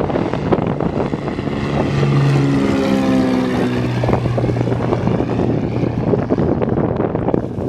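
An aircraft passing close by, its engine tones sliding down in pitch as it goes past about three seconds in, with wind buffeting the microphone.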